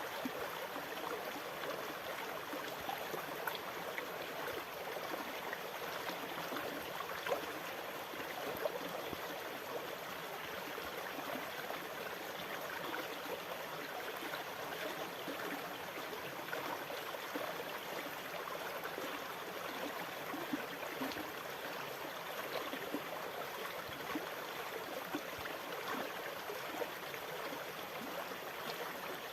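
Continuous running water, gurgling and splashing steadily without the rise and fall of breaking waves.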